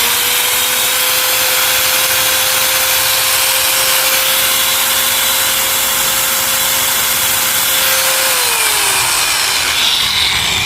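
A 1000 W Mitsushi angle grinder running free with no disc fitted, a loud steady motor whine. About eight seconds in it is switched off, and the pitch falls as it spins down.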